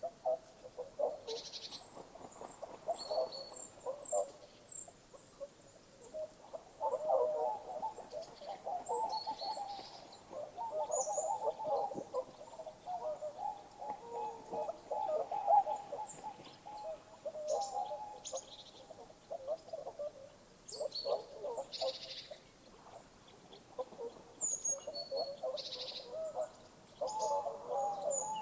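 Birds calling: a dense, busy chatter of many rapid calls, with short high chirps scattered over it.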